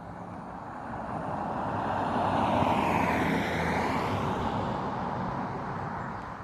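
A road vehicle passing by: engine and tyre noise swells to a peak about three seconds in, then fades.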